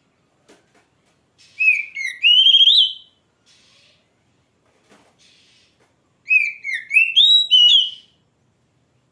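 Oriental magpie-robin (kacer) singing: two loud whistled phrases, each a run of notes stepping upward in pitch, with short faint scratchy sounds between them.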